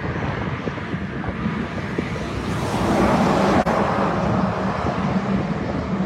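Wind rushing over the microphone with a steady engine drone underneath that swells about halfway through, the hum of passing traffic or aircraft.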